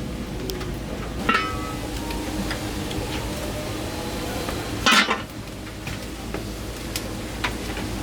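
Clinks and knocks of kitchen utensils and dishes being handled, with a ringing metallic clink about a second in and a louder clatter about five seconds in, over a steady low hum.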